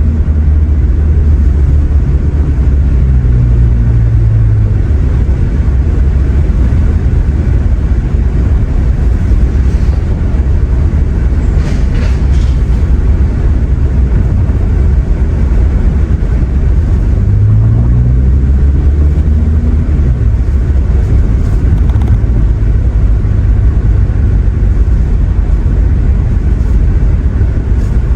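2017 Honda Accord LX's 2.4-litre four-cylinder running through a muffler-deleted exhaust, heard from inside the cabin while driving: a loud, low drone whose pitch climbs as the car accelerates, about three seconds in and again past halfway.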